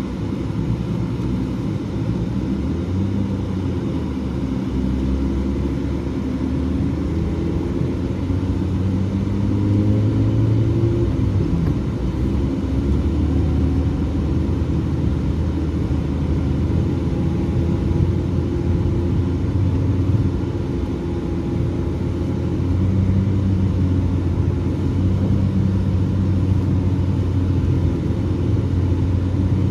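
BMW E36 engine and road noise while driving, a steady rumble whose engine note rises and falls a little as the speed changes.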